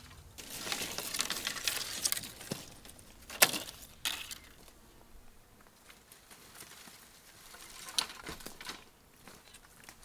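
Rustling and crinkling handling sounds for the first couple of seconds, then a few sharp clicks or taps, the loudest about three and a half seconds in and another near eight seconds.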